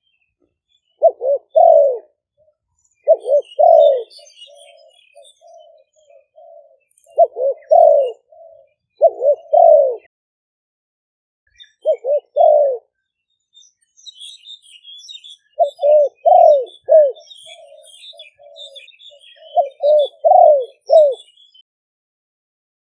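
Spotted doves cooing: loud coo phrases of two or three notes, repeated every few seconds, some followed by a softer run of low coos, from caged decoy birds calling in turn. Faint high chirps of small birds are heard behind them, more in the second half.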